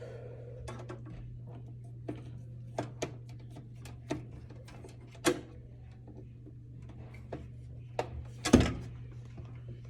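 Scattered clicks and knocks of hands and a screwdriver working at a screw in a desktop computer's metal case, the loudest knock about eight and a half seconds in, over a steady low hum.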